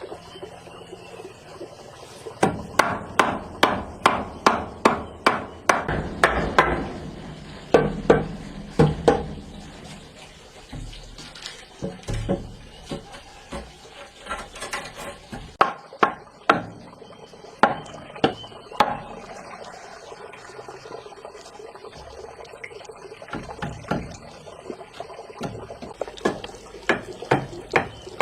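Hammering: a quick run of even blows, about two to three a second, for several seconds, then slower, scattered strikes.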